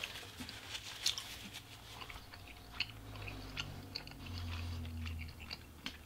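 Closed-mouth chewing of chewy Korean rice cakes (tteokbokki) and ramen noodles: soft, wet mouth clicks and smacks. A low hum lasts about a second, a little past the middle.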